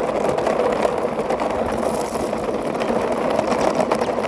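A plastic toy car pushed along by hand, its wheels rolling and rattling steadily with many small clicks.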